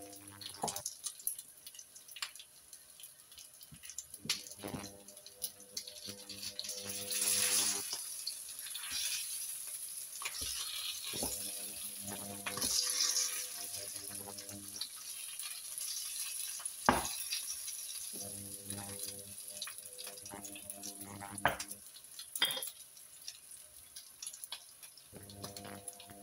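Beef burger patties sizzling in a frying pan, with a wooden spatula scraping and knocking against the pan now and then, loudest about two thirds of the way through. Under the sizzle a low hum cuts in and out every few seconds.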